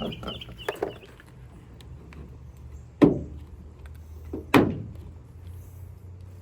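Two loud, sharp thuds about a second and a half apart, each ringing briefly, with a few lighter knocks before them, over a low steady hum.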